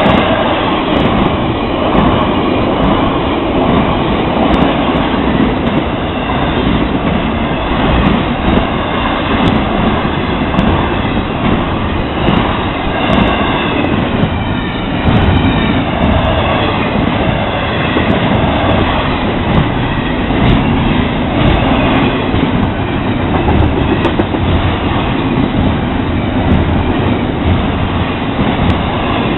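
A long Florida East Coast Railway intermodal freight train of double-stack container cars rolling past at speed. A loud, steady rumble of steel wheels on rail, with wheel clatter.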